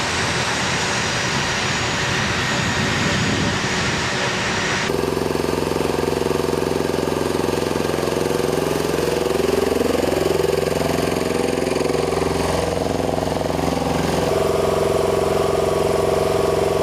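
Aircraft engines running, heard in three cut-together stretches. First a dense rushing noise with a faint high whine. Then, from about five seconds in, a lower engine note whose pitches slide up and down. From about fourteen seconds in, a steady note.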